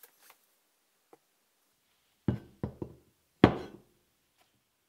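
Three knocks on a wooden workbench: two close together, then a louder third with a short ringing tail.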